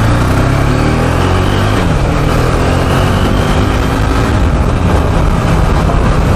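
KTM RC 390's single-cylinder engine running under load while being ridden, with the revs dipping briefly about two seconds in.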